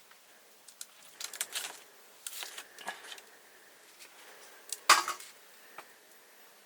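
Cooking utensils handled during food preparation: scattered light knocks and scrapes, with one louder clatter about five seconds in.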